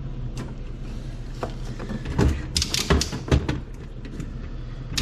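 A quick run of sharp knocks and clatters about two seconds in, over a steady low hum.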